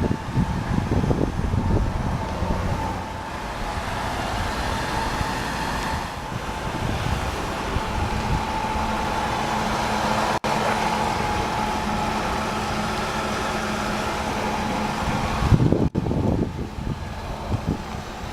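1999 Chevrolet Malibu's 3100 V6 idling steadily with a light high whine over the engine noise. Wind buffets the microphone at the start and again near the end.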